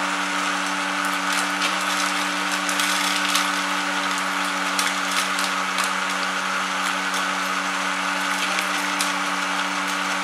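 Seed-processing machine running: a steady motor hum with a continuous stream of irregular small ticks and clicks.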